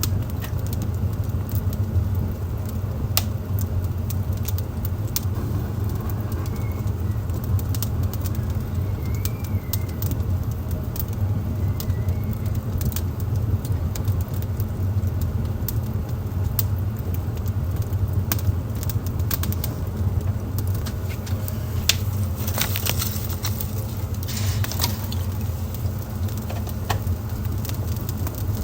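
Wood fire burning in a fireplace: a steady low rumble of the flames with frequent sharp crackles and pops, the crackling growing denser about two-thirds of the way through.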